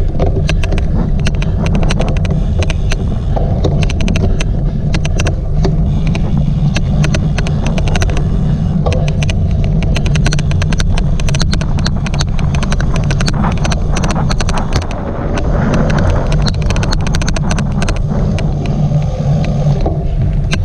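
Loud low rumble and buffeting of a cyclocross bike racing over rough ground, with many sharp, irregular clicks throughout: an odd clicking noise.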